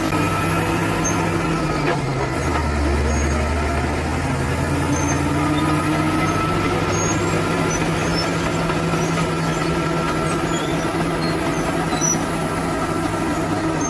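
Bulldozer's diesel engine running steadily under load; its note deepens for a couple of seconds about two seconds in, then settles again.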